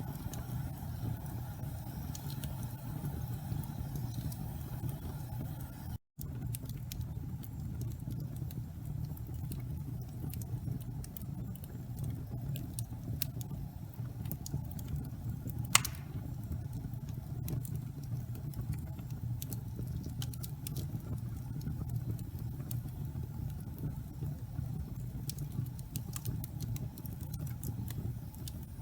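Wood fire burning in a fireplace: a steady low rumble of flames with sparse crackles and one louder pop about halfway through. The sound cuts out for an instant about six seconds in.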